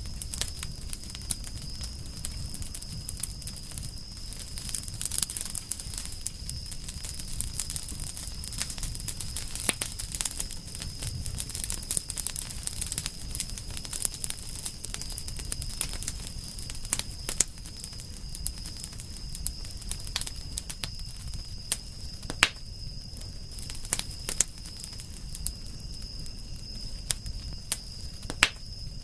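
Campfire of burning firewood crackling, with irregular sharp pops and snaps over a low rumble. A thin steady high-pitched tone runs underneath.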